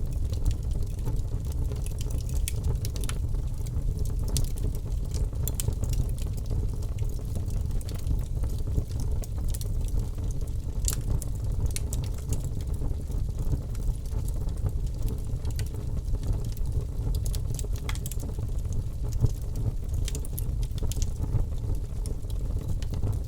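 Birch logs burning in a fireplace: a steady low rumble of flame with frequent irregular sharp crackles and pops.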